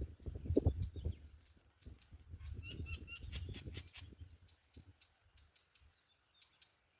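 A few short, high bird chirps about three seconds in, over irregular low rumbling bumps that die away after about four seconds.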